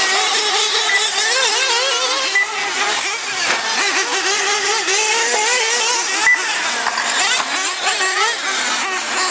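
Several radio-controlled monster trucks and truggies racing, their small engines revving up and down over one another without a break.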